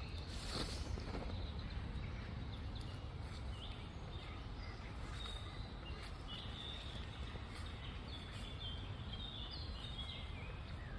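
Outdoor ambience: a steady low background noise with small birds chirping and calling in short, scattered notes throughout.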